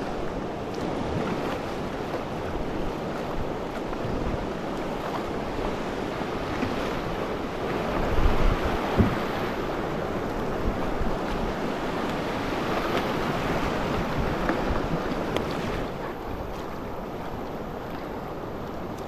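River water rushing and splashing around a raft, with wind buffeting the action-camera microphone; a few low thumps come about eight to nine seconds in.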